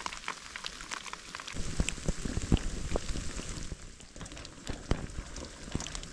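Steady rain falling, with many sharp taps of large drops striking close by; it is heaviest from about one and a half to three and a half seconds in.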